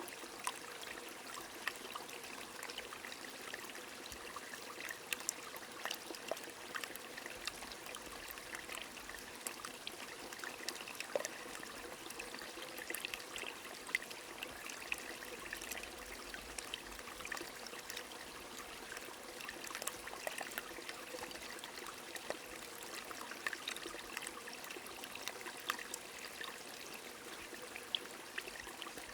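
Rain falling with a stream running, a steady rush of water scattered with many small drop ticks.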